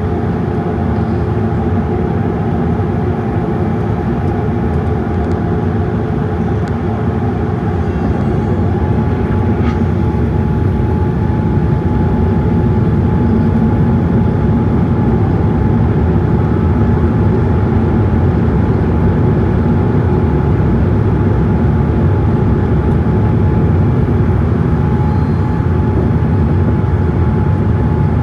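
Steady jet noise heard from inside a Boeing 787-8 cabin: a loud, even rush with a constant hum, growing slightly louder about halfway through.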